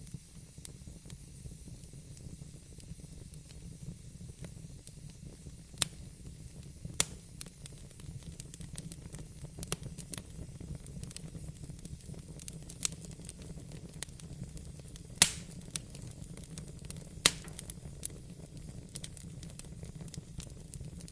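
Wood fire in a fireplace crackling: a steady low rumble of flames with scattered sharp pops and snaps, the loudest about six, seven, fifteen and seventeen seconds in.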